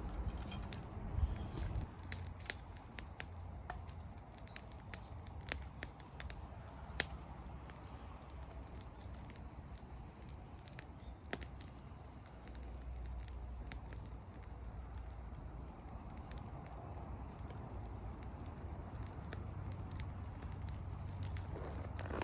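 Wood campfire crackling with scattered pops, one sharp pop about seven seconds in, while a bird repeats short arched whistling calls in the background.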